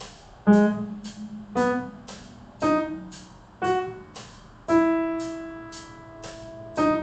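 Piano playing a slow six-note phrase in G sharp minor: G sharp, B, D sharp, F sharp, E, D sharp. The notes come about one a second, each struck and fading, with the E held longest.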